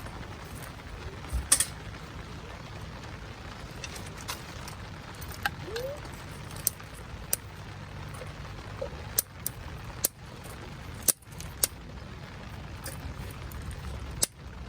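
Wood fire burning in a Solo Stove, crackling with sharp, irregular pops over a steady low rush.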